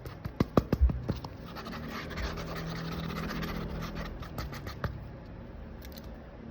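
Scratchy sketching strokes on paper: a quick run of sharp taps and strokes in the first second, then a steadier stretch of scratching, with a few more taps near the end.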